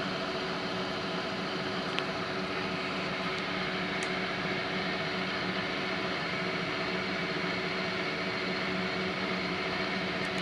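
Pro-max vertical milling machine running steadily at speed, a constant machine hum with several steady tones. A couple of faint ticks come about two and four seconds in.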